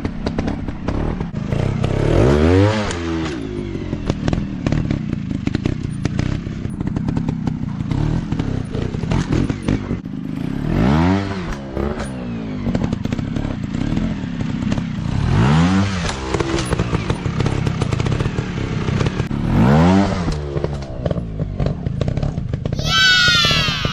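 Dirt bike engine revving up and easing off again about four times over a constant rough engine clatter, with a higher-pitched rev near the end.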